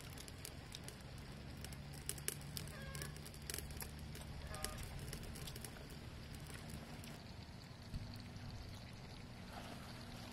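Eating by hand: chewing and crunching of crispy pork belly, heard as scattered short clicks, with a few short chicken clucks in the background around three and four and a half seconds in over a low steady hum.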